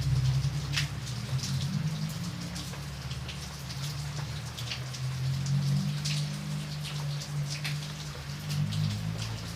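Steady rain, with single drops striking a surface in irregular sharp ticks several times a second, over a steady low rumble.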